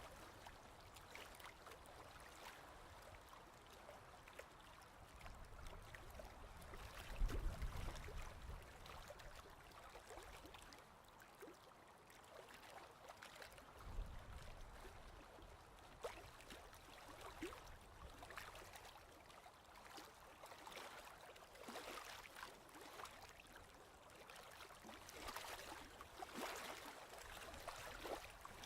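Faint ocean waves washing in, an even rush of water that swells now and then, with small splashes and ticks.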